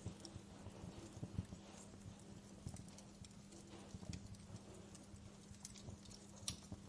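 Wood fire crackling in a fireplace: scattered irregular pops and snaps from burning logs and embers, with a sharper pop about six and a half seconds in, over a faint steady low hum.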